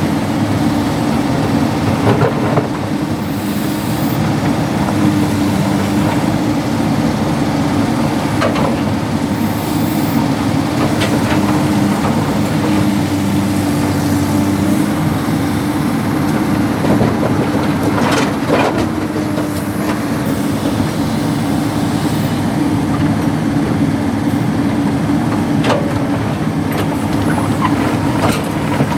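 Excavator's diesel engine running steadily under load, with a few short knocks scattered through.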